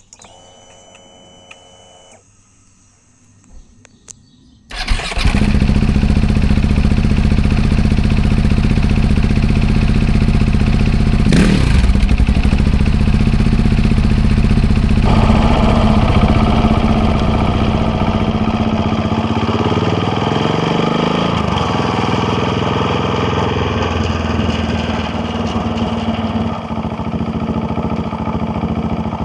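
KTM Duke 690R single-cylinder engine being started about five seconds in, after a faint steady whine in the first two seconds, then idling steadily with one brief blip of the throttle near the middle.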